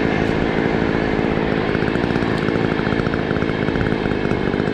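Small petrol engine running steadily under continuous power, with no pauses.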